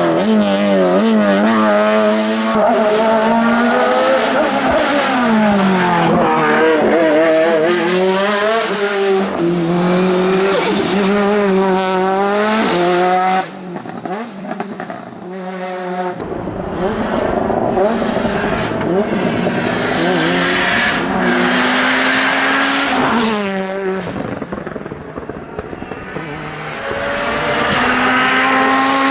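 Hillclimb race car engines at full throttle, revving up through the gears with the pitch climbing and dropping back at each shift, and falling away as the car brakes for corners. About 13 seconds in the sound cuts abruptly to a quieter engine that builds again toward the end.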